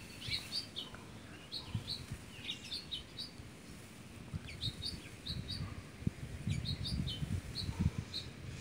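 Small birds chirping, short high chirps repeated over and over, with a few soft low knocks from the phone being handled.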